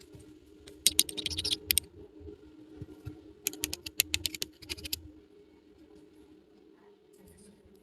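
Small plastic toy pieces being handled, giving rapid clusters of sharp clicks and taps: a burst about a second in and another from about three and a half to five seconds, then only light handling.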